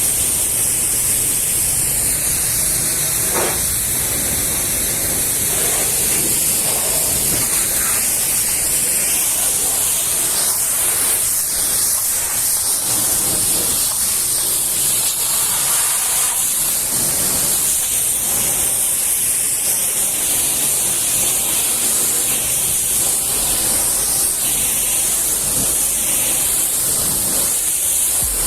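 Pressure washer spraying water, a steady loud hiss whose tone shifts slowly.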